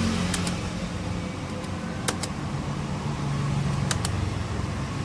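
Computer mouse double-clicks, three pairs of short sharp clicks spread over a few seconds, over a steady low background hum.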